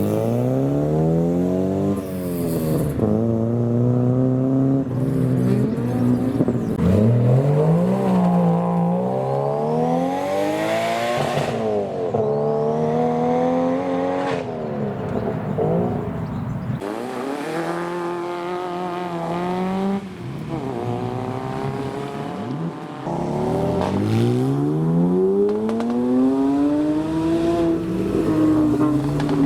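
Modified cars' engines accelerating hard as they leave, one after another. The engine pitch rises, falls back at each gear change or lift-off, and rises again, many times over.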